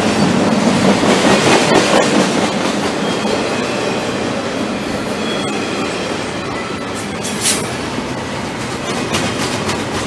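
Intermodal freight train's container well cars rolling past close by: steady loud rumble and clatter of steel wheels on the rails, with a brief high-pitched screech about seven and a half seconds in.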